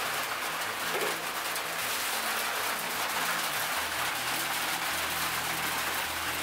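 Rain falling on the roof: a steady, even hiss with no break.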